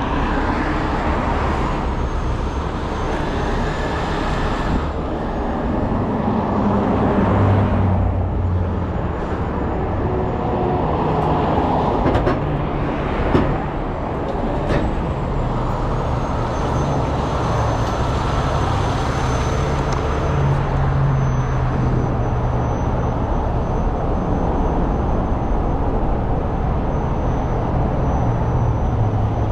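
Heavy truck diesel engine running steadily, its pitch drifting up and down a little, with a few sharp knocks about halfway through.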